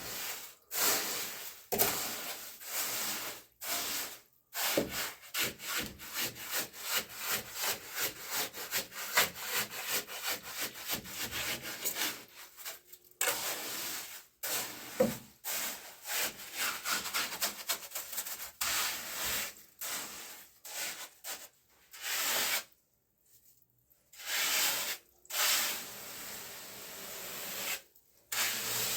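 A hand tool working in repeated rasping strokes at a steady rhythm of about two a second, like sawing or scraping. The strokes stop briefly twice, then resume.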